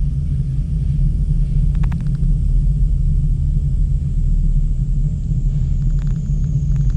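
Steady low rumble of a ropeway cable car gondola in motion, with a few faint clicks about two seconds in and again near the end.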